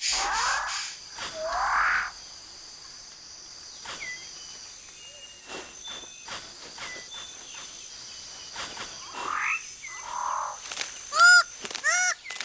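New Guinea rainforest ambience: two loud rising calls at the start and another near the middle, over a steady high insect hum and scattered clicks. Near the end comes a fast run of loud, repeated call notes, about two to three a second.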